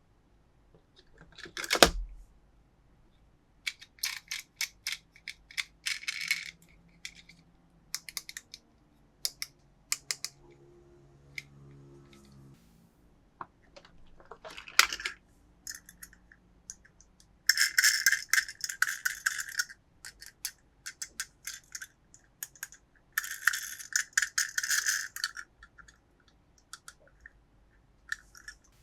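Toy packaging being handled and opened: scattered clicks and light knocks of plastic, a heavier knock about two seconds in, and two longer stretches of crinkling, rustling plastic near the end.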